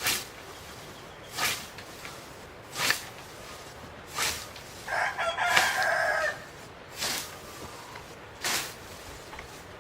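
A rooster crows once, starting about five seconds in and lasting just over a second. Short, sharp bursts of noise recur about every second and a half.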